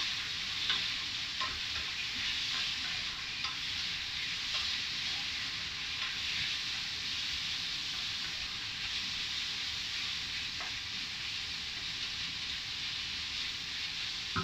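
Sliced chicken and sausage sizzling as they stir-fry over high heat in a stainless steel pan. A wooden spatula scrapes and taps against the pan now and then.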